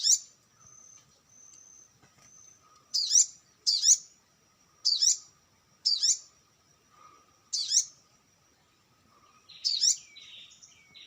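Kecial kuning, a yellow white-eye, calling with short, high chirps: about seven at uneven spacing of roughly a second, with a thin faint high tone between them and a slightly different call near the end.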